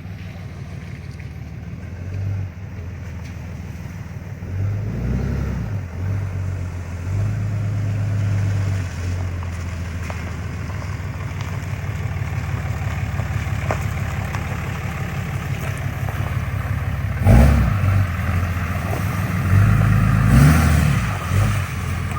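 Vehicle engine running on the move, a steady low drone that swells several times, loudest near the end.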